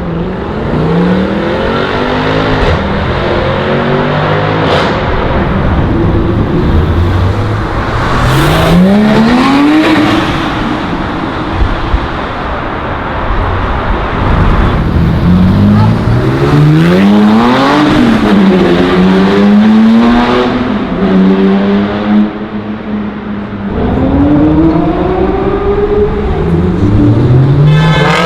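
High-performance car engines revving hard as several cars accelerate away one after another. Each engine note climbs in pitch and drops back at gear changes, with a steadier engine note holding for a few seconds in the middle.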